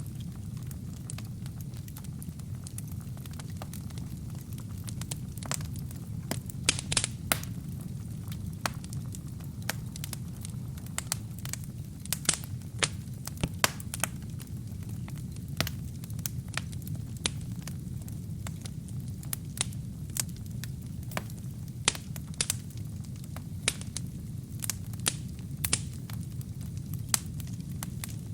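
Wood fire burning in a fireplace: a steady low rumble of the flames with irregular sharp crackles and pops from the burning wood and kindling, coming in small clusters.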